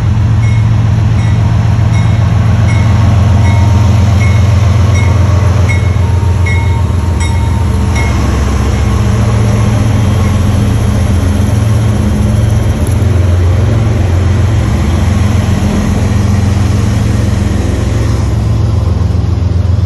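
Diesel locomotives of a freight train passing close by: a loud, steady low engine rumble over the sound of steel wheels rolling on the rails. A light, regular ticking, about one and a half a second, runs through the first eight seconds or so.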